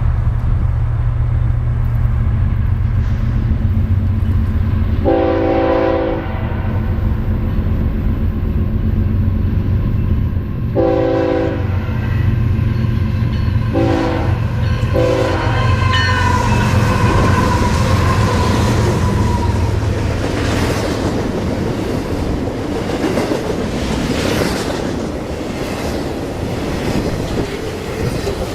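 A diesel locomotive drones as it approaches and sounds its multi-chime horn: two long blasts, then two short ones. It then passes close by, its wheels clacking over the rail joints.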